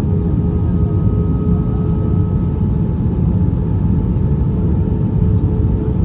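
Cabin noise inside an Airbus A320 airliner in flight: a steady, even rumble of engines and airflow with a few faint held hum tones over it.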